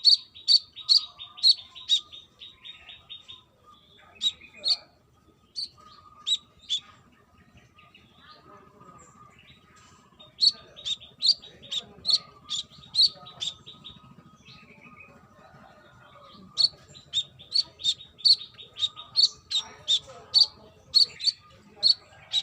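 Brown-throated sunbird singing: runs of rapid, sharp, high chirps, in several phrases broken by short pauses.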